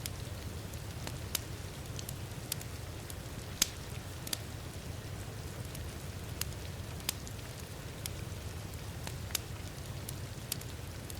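Wood fire in a fireplace crackling, with sharp pops at irregular intervals, over a steady low rumble and the hiss of heavy rain.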